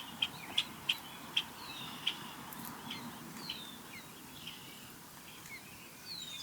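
Birds chirping: a quick run of short, sharp chirps in the first two seconds, then scattered falling whistled notes over faint outdoor background noise.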